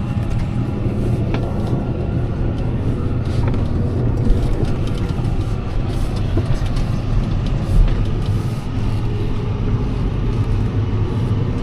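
Heavy farm machinery's diesel engine running steadily under load, a constant low hum with occasional light rattles and knocks.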